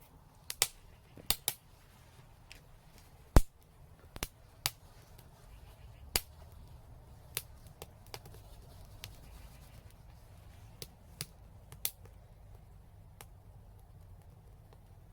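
Wood fire crackling: irregular sharp pops and snaps, the loudest about three and a half seconds in, over a faint low rumble of the burning.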